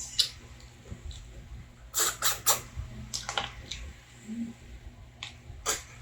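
Close-up eating sounds: a run of short wet smacks and clicks from a mouth chewing and sucking, the loudest cluster about two seconds in.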